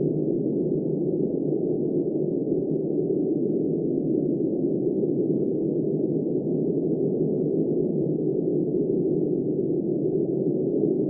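Steady, muffled blizzard wind: a dull, low-pitched rush of noise that runs evenly, without gusts or breaks.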